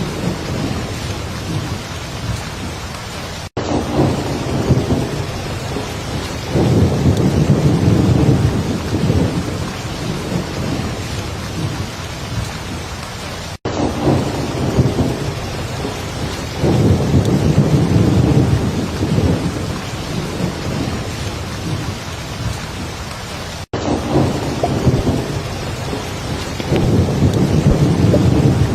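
Heavy rain falling steadily, with rolling thunder swelling up low three times, about every ten seconds. A very brief dropout recurs at the same spacing, like the seam of a looped track.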